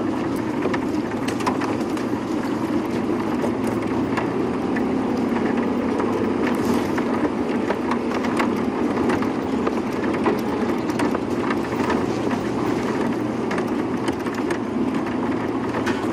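Safari game-drive vehicle's engine running as it drives slowly off-road through the bush, a steady low drone with frequent small knocks and rattles.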